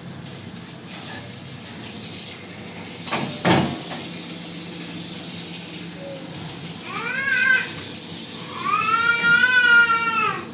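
A cat meowing twice: a short meow about seven seconds in, then a longer one near the end, each rising and then falling in pitch. A single sharp knock comes about three and a half seconds in, over a steady hiss.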